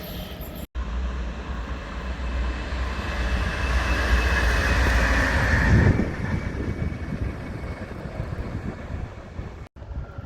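A train passing on the rails, its running noise building to a peak about six seconds in and then dropping away.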